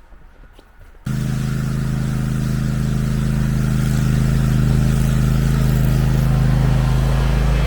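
Engine of a John Deere ride-on mower running steadily in the cold, coming in abruptly about a second in with a steady low hum.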